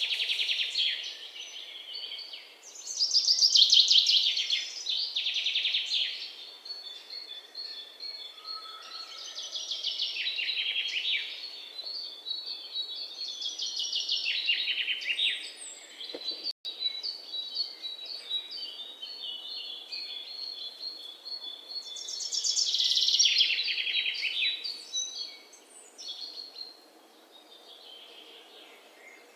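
Songbirds chirping: loud bursts of rapid chattering every few seconds, with a bird repeating a short high note over and over through the middle.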